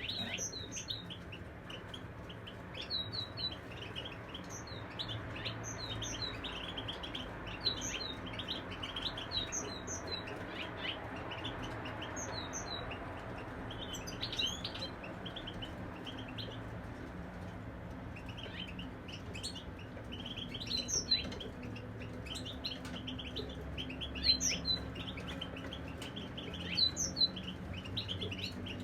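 Caged European goldfinches singing, a continuous run of quick, high twittering chirps and trills.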